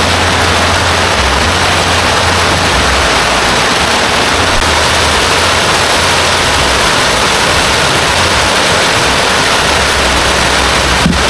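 Heavy rain pouring steadily, a dense hiss with a low rumble underneath. A brief knock near the end.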